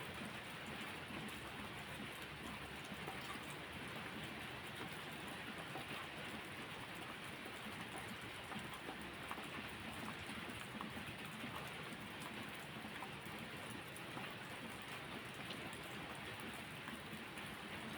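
Steady rain falling, an even patter of many drops.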